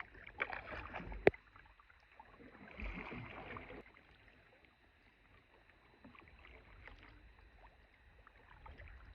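Kayak paddle strokes: two splashing swishes through the water, with one sharp knock about a second in, then quieter lapping water.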